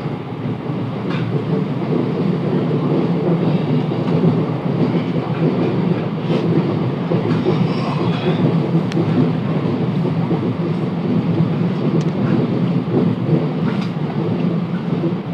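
Class 707 Desiro electric train running, heard from inside the carriage: a steady rumble of wheels on track with scattered short clicks, growing a little louder in the first couple of seconds.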